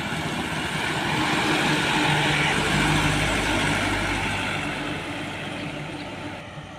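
A heavy diesel truck driving past on the road: engine hum and tyre noise swell to a peak about two to three seconds in, then fade as it moves away.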